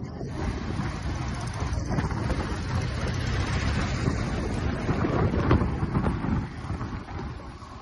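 Royal Enfield Classic 350's single-cylinder engine running on the move, with wind buffeting the microphone. The sound eases a little near the end.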